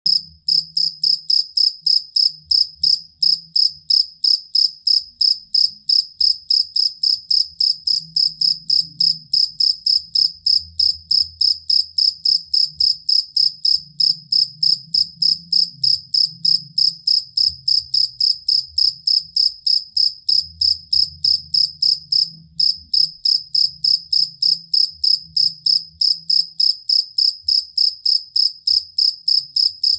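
Field cricket chirping steadily, about three to four short, high-pitched chirps a second, with two brief breaks, one near the start and one about two-thirds of the way through.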